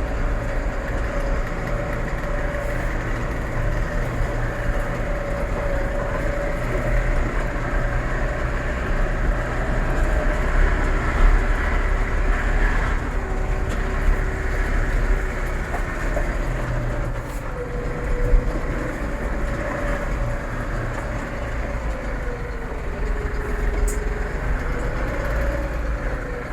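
Massey Ferguson 4708 tractor running with a steady whine from its gearbox over the engine's rumble. The whine wavers in pitch and drops lower for a while about halfway and again near the end. It is the gearbox noise fault the owner is recording.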